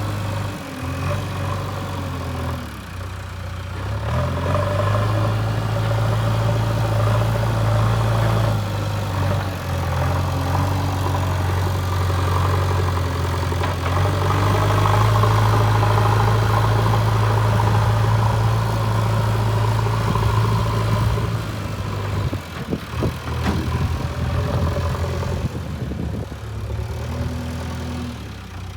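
JCB 3DX backhoe loader's diesel engine running while dozing, its speed dropping and picking up again several times, with a short spell of clanking a little over twenty seconds in.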